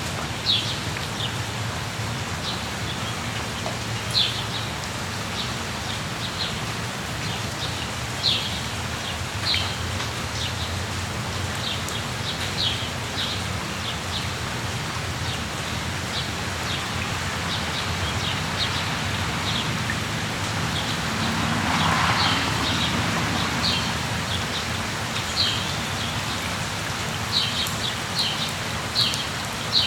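Steady rain falling, with short high bird chirps scattered through it and coming more often toward the end. About two-thirds of the way in, a brief whooshing swell rises and fades over a couple of seconds.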